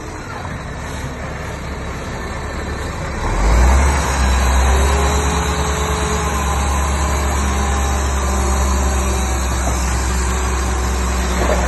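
Heavy diesel engine of earthmoving machinery running steadily. About three seconds in it builds up louder and then holds under load.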